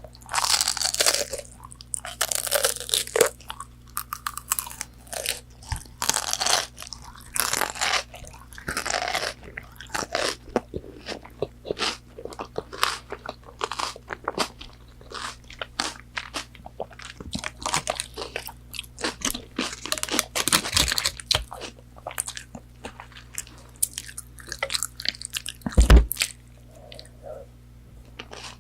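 Close-miked crunching, biting and chewing of crispy fried fast food, in irregular crackly bursts. A heavy low thump sounds near the end.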